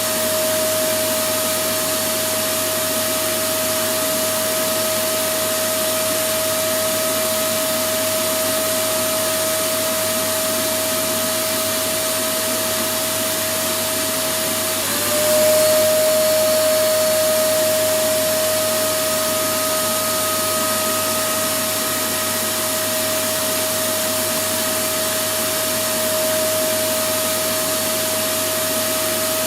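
Electric vacuum cleaner running continuously: a steady rush of air with a constant motor whine. About halfway through, the whine dips slightly in pitch and the sound briefly gets a little louder, then settles again.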